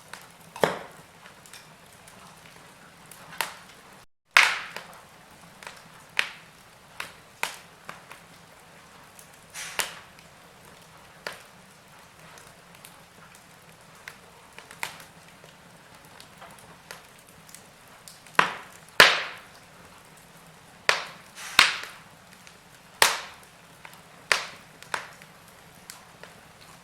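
Wood fire crackling in a fireplace: irregular sharp pops and snaps over a low hiss, a few of them much louder than the rest. A moment of dead silence breaks it about four seconds in.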